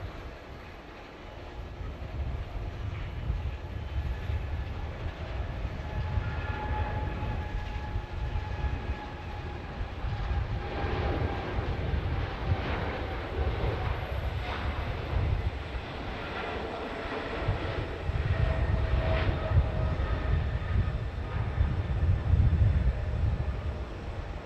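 Jet airliner's engines passing: a steady rumble with a whining tone that slides slowly lower, the rumble growing louder in the last part.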